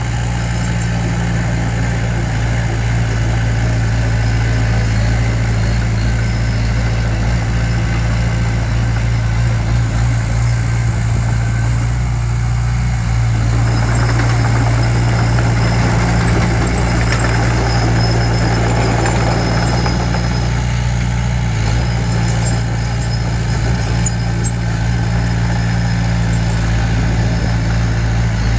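Heavy-equipment diesel engine running steadily, a constant low hum, with a rougher, noisier stretch layered over it for several seconds in the middle.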